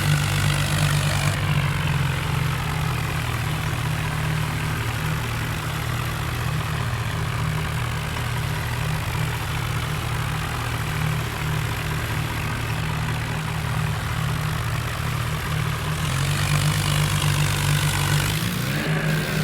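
John Deere tractor's diesel engine running steadily, a little louder in the last few seconds.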